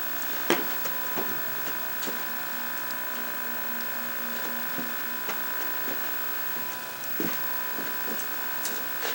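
Scattered light clicks and knocks of handling on a workbench, over a steady electronic whine of several high tones.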